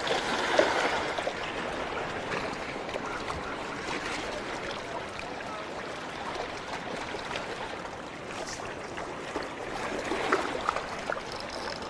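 Steady splashing, trickling water with a fine crackle throughout, a little stronger about ten seconds in.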